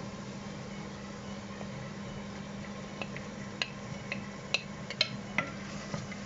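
A spoon stirring onions and green chilies frying in oil in a cooking pan, with a run of sharp metal clinks against the pan in the second half, over a steady low hum.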